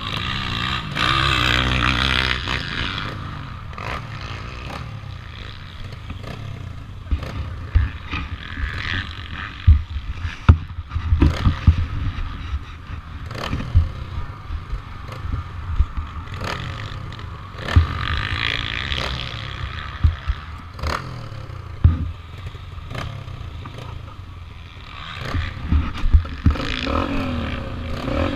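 Pit bike engine, a 2001 Yamaha TT-R125L's air-cooled four-stroke single, revving up and easing off again and again while being ridden. Frequent sharp knocks and rattles from the bike run through it.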